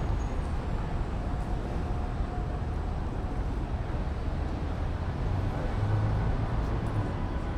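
Street traffic: a steady low rumble of passing vehicles' engines and tyres, a little louder with a low engine hum about six seconds in.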